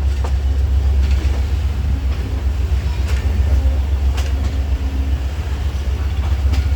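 Passenger train running on the rails: a steady low rumble with a few sharp, irregular clicks.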